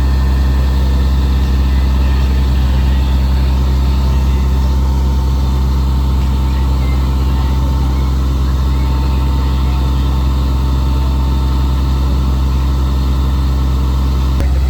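Fire engine's engine running steadily with a deep, even drone, unchanging throughout.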